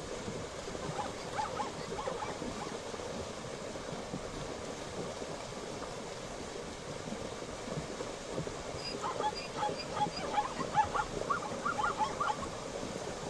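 Zebra barking call: a rapid series of yelping barks, a short run about a second in and a longer one from about nine seconds in, over a steady rushing background.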